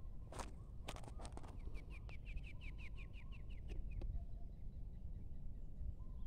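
A bird calling in a rapid series of short, high, downward-slurred notes, about six a second, for around two seconds starting a second and a half in. A few sharp crunches come just before it.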